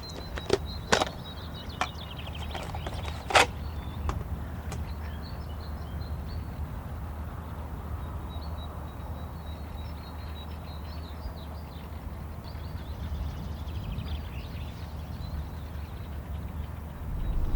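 Small birds chirping over a steady low rumble, with a handful of sharp knocks and clicks in the first five seconds, the loudest about three seconds in.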